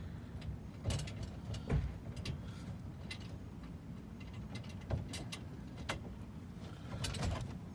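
Scattered light clicks and taps of hand work on the splash-plate screws under the car, over a low steady rumble.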